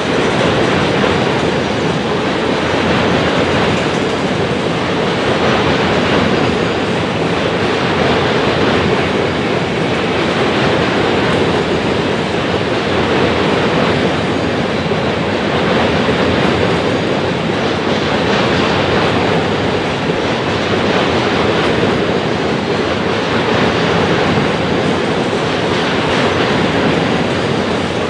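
Empty center-beam flatcars of a freight train rolling past: a steady rumble and clatter of steel wheels on the rails that keeps up with no break.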